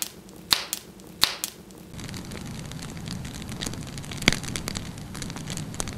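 Wood fire crackling in a fireplace: sharp, irregular pops over a steady low hiss that comes in about two seconds in.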